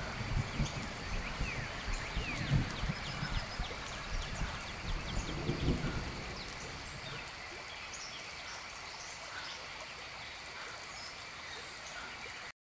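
Rain ambience: steady rain with many short high chirps over it and heavier low rumbling in the first half, settling to a steadier, quieter patter, then cutting off suddenly at the end.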